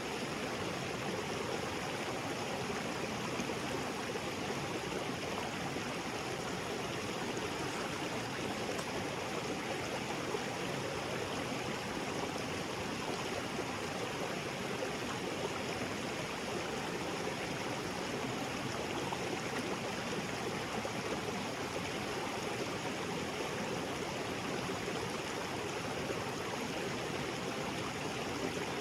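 Small waterfall splashing into a rocky creek, a steady rushing of water.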